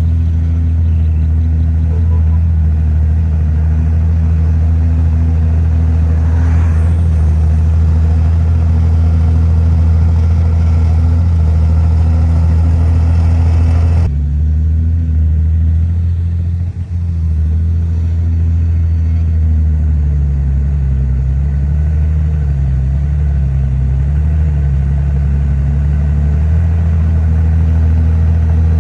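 Heavy diesel engine of earthmoving machinery running loud and steady under load. The sound changes abruptly about halfway through, and later the engine speed rises and falls several times as the machine works.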